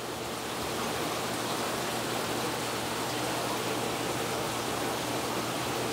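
Steady rushing hiss of water moving through a saltwater reef aquarium, with a faint low hum underneath.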